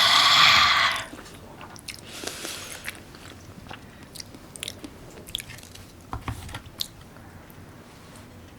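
Close-miked eating: a loud crunchy burst in the first second, then quieter chewing with scattered small clicks.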